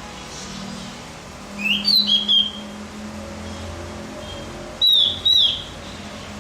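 Javan grey-throated white-eye (opior jawa) giving short, sharp whistled call notes: a quick cluster of three or four about two seconds in, then two loud notes near the end.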